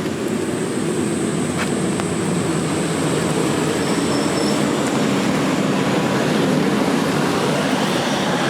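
A large vehicle going by on a wet street: a steady low rumble with tyre hiss that slowly swells to its loudest late on, with a thin high whine over the first half.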